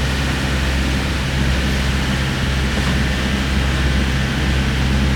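Small passenger boat's engine running steadily, a constant low hum over rushing noise.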